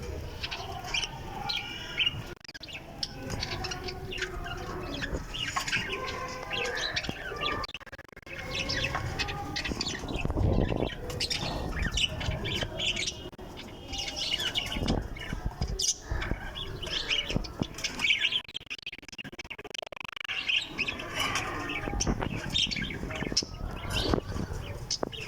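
A flock of aviary birds chirping and calling over one another without pause, with occasional louder thumps.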